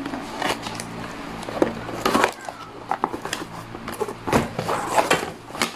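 Cardboard packaging and bubble wrap being handled as a boxed floodlight is opened and slid out: irregular rustles, crinkles and light knocks of cardboard and plastic.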